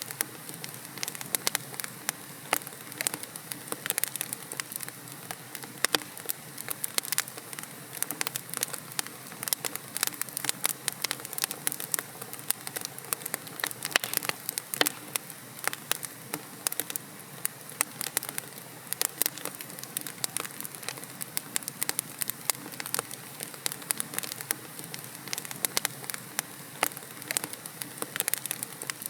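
Wood logs burning in a fireplace, crackling with many sharp irregular pops and snaps over a steady soft hiss of the flames.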